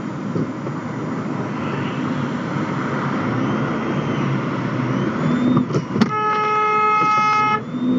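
Car driving with steady road noise, then a sharp knock about six seconds in, followed at once by a car horn held for about a second and a half.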